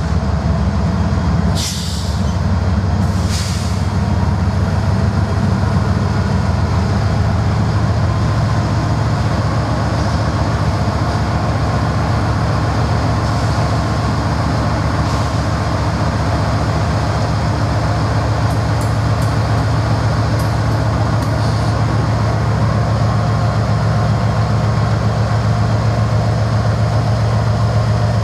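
Norfolk Southern diesel locomotive engine running with a steady low drone. Two short hisses of air come in the first few seconds.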